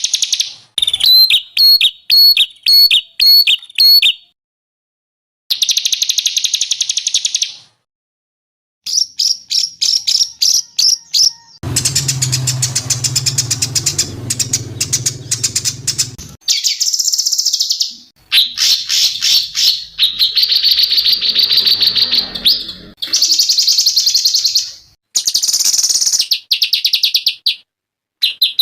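Recorded songbird song played as a string of separate clips: fast, repeated chattering and trilling phrases, high-pitched, with short silent gaps where one recording cuts to the next. One clip, from about 12 to 16 seconds in, has a low hum beneath the song.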